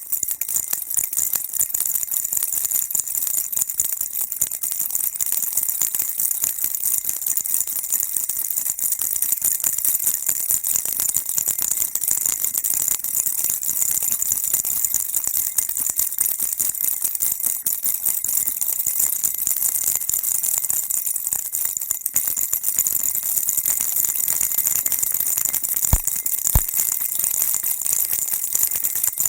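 Baby rattle shaken without a break: a dense, steady, high-pitched rattle and jingle of small beads inside the toy. Two sharper knocks stand out near the end.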